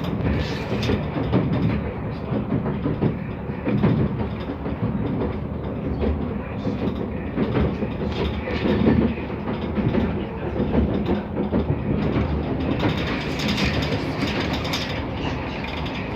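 Stadler ÉPr electric train running, heard from inside the carriage: a steady rumble of the wheels on the rails with irregular knocks and clatter.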